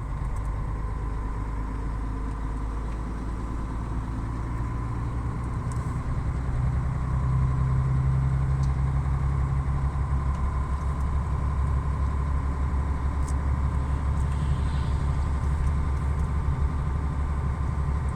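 Vehicle engine and road noise heard from inside the cab while driving: a steady low drone that grows a little louder about six to seven seconds in.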